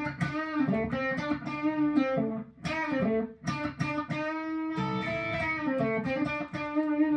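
Firefly Les Paul-style electric guitar with a Seymour Duncan '59 humbucker in the bridge, played through an amp as a melodic line of single picked notes, several held with a slight waver.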